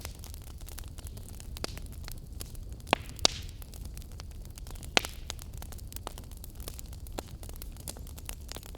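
Wood fire crackling: a steady low rumble of burning with constant small crackles and a few sharp, louder pops, twice near 3 s in and once about 5 s in.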